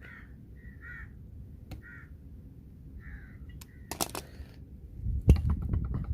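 Crows cawing several times in short harsh calls, with a few sharp metallic clicks, then a loud knock and a second of rumbling handling noise near the end.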